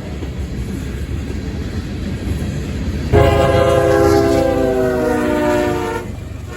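Steady rumble of a passing train, then a locomotive's multi-note horn sounds for about three seconds starting about three seconds in, its pitch sagging as it goes before it cuts off.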